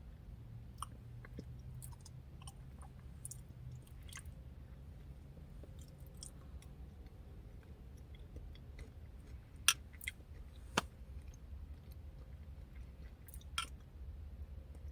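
Faint chewing and mouth sounds of someone eating a yogurt parfait with blueberries, pecans and oatmeal, over a steady low hum. Scattered small clicks run through it, with a few sharper clicks a little past the middle.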